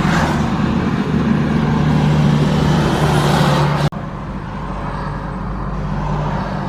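Truck engine running steadily. It cuts off abruptly about four seconds in and gives way to a similar, slightly quieter engine hum.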